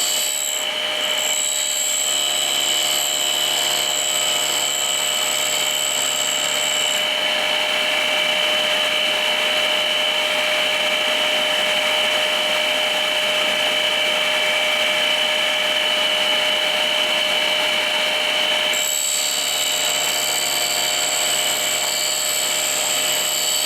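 A tool and cutter grinder and a vacuum cleaner running together, sharpening a gear hob: a loud, steady machine whine with several steady tones. A very high-pitched tone drops out about seven seconds in and comes back near the end.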